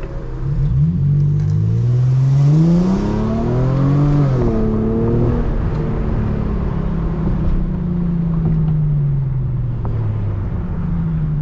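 Muffler-deleted Infiniti G35's V6 exhaust under acceleration: the engine note climbs steadily for about three seconds, drops sharply at a gear change about four seconds in, then holds and slowly falls as the car eases off.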